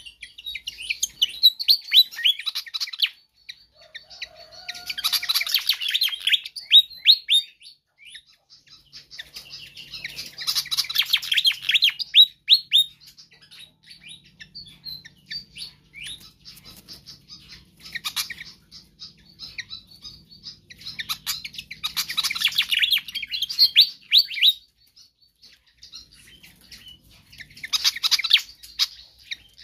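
Fantail (sikatan kipas) singing vigorously: about six bursts of rapid, high chirping notes, each a few seconds long, with short pauses between them.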